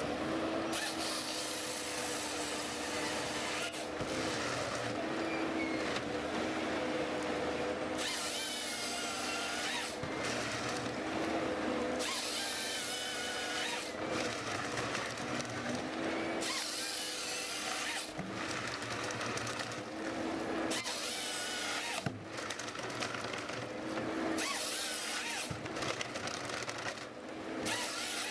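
Power tools working wood: a steady motor hum with changing cutting noise on top, breaking off and changing abruptly every second or two.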